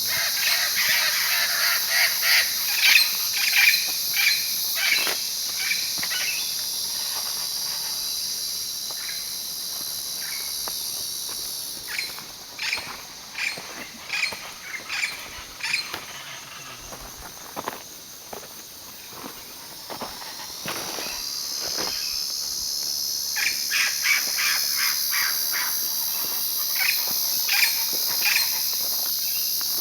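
Wild birds calling in runs of short, sharp chirps, in three spells, over a steady, high-pitched insect chorus of crickets or cicadas.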